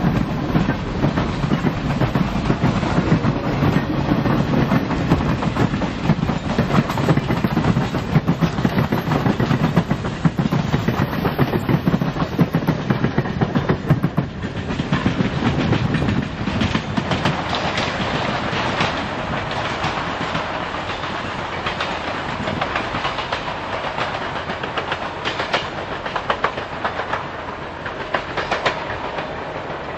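Train cars rolling past, their wheels clattering over the rails. A heavy low rumble dominates the first half. About halfway through it eases, leaving lighter, sharper wheel clicks that fade slowly toward the end.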